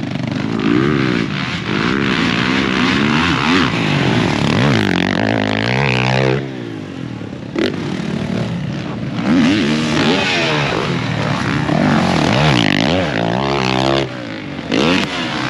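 Dirt bike engines on a supercross track, revving up and down over and over as the riders work the throttle, with short lulls about six seconds in and near the end.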